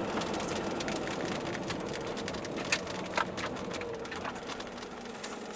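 Raindrops ticking irregularly on a moving motorhome's windscreen and roof, over a steady hum of engine and road noise in the cab; the sound fades gradually, with a couple of louder ticks about halfway.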